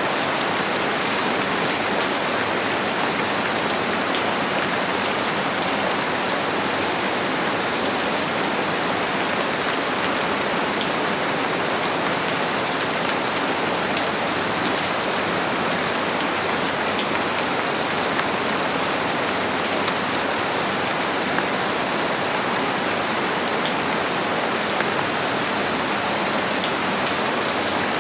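Steady rain falling: a dense, even hiss sprinkled with many small, crisp drop ticks, unchanging throughout.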